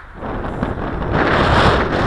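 Wind buffeting the microphone: a loud rushing noise that swells about a second in.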